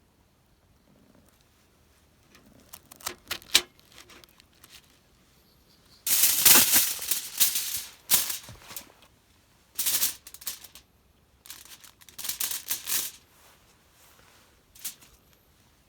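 Irregular bursts of rustling and rattling, each lasting up to about a second and a half, with quiet gaps between them.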